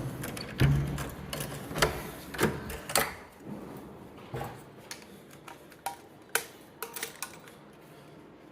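A run of sharp clicks and knocks, about two a second for the first three seconds, then fewer and fainter.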